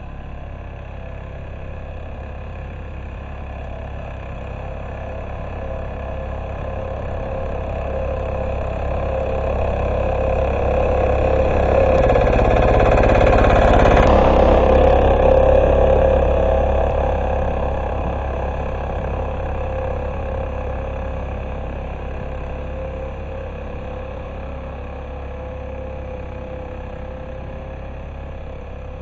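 Single-cylinder diesel engine of a Neva MB-2 walk-behind tractor running under load while ploughing. It grows steadily louder to a peak near the middle, then fades.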